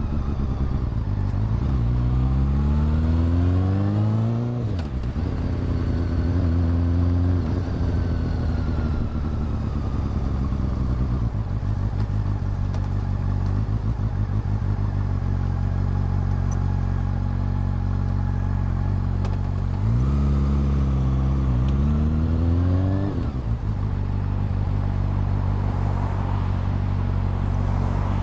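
Honda CB400 Super Four's inline-four engine and exhaust under way: it pulls up in pitch through the revs in the first few seconds, drops sharply as it shifts, and then settles to a steady lower note. About twenty seconds in it revs up again in two quick rises, then drops back to a steady run.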